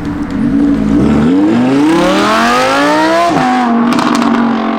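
Car engine accelerating hard: its note rises steadily for about three seconds, drops sharply at a gearchange, then runs on steady, with a quick run of sharp cracks just after the shift.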